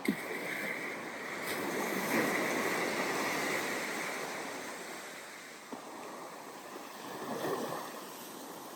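Ocean waves breaking and washing up the sand, swelling about two seconds in and again near the end, with a few faint clicks.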